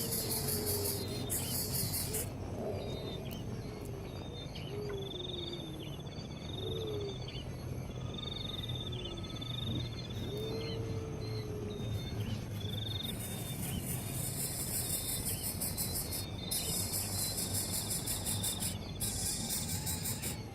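Insects shrilling in a high steady buzz that stops and starts, with short trilled bird calls and a few lower whistled notes that slide in pitch.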